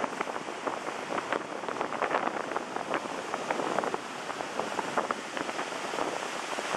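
Strong wind buffeting the microphone with a crackling flutter, over the steady rush of ocean surf.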